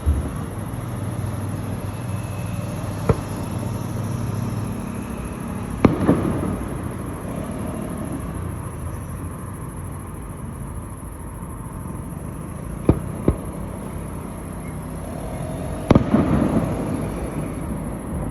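Fireworks shells bursting overhead: about six separate sharp bangs, each followed by a rolling rumble. The loudest come about six seconds in and near the end.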